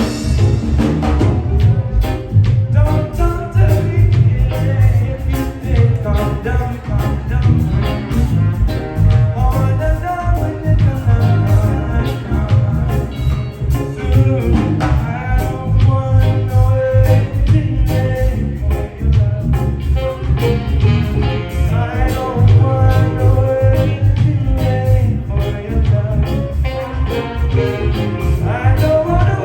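Live reggae band playing loud amplified music, with a heavy bass line, a steady drum beat and melodic lines on top.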